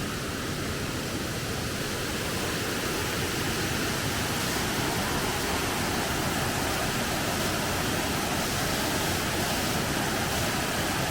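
Mungalli Falls: water pouring down the waterfall, a steady, even rush.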